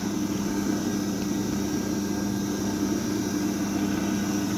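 Horizontal continuous band sealer (model 301) running with a steady hum, sealing the third side of a metallized-film bag.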